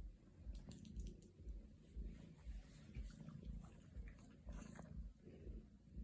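Cat purring, a low rhythmic rumble pulsing about twice a second, with a few faint rustling clicks.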